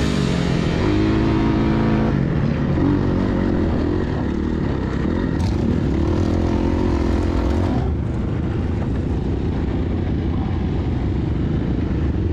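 Four-stroke 450 dirt bike engine running under throttle, its pitch rising and falling several times as the rider rolls on and off, with heavy wind noise on the microphone.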